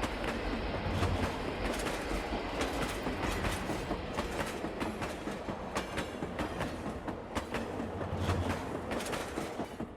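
Model freight train rolling past on the layout, its wheels clicking over the rail joints.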